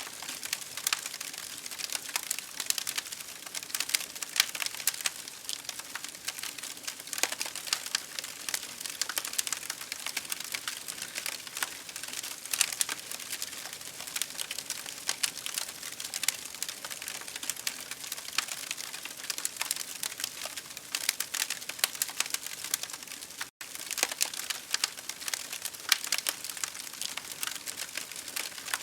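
Campfire crackling steadily, with dense sharp snaps and pops over a continuous hiss that the title gives as rain. The sound cuts out for a split second about four-fifths of the way through.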